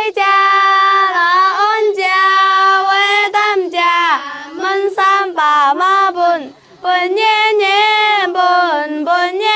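Young Dong girls singing a folk song as a single melodic line, with held notes that slide and bend in pitch. There is a short break about six and a half seconds in.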